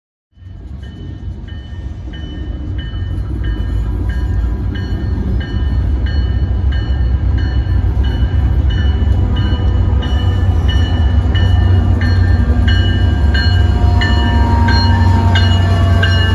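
A train approaching, its heavy rumble growing steadily louder, while a bell rings about twice a second.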